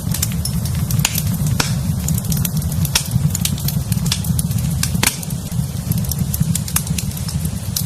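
Wood fire in a fireplace crackling: frequent, irregular sharp pops and snaps over a steady low rumble of the burning fire.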